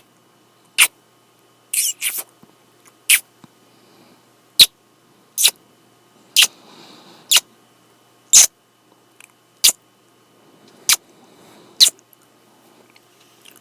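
Close-up kissing sounds made right at the microphone: about a dozen short, sharp lip smacks, roughly one a second.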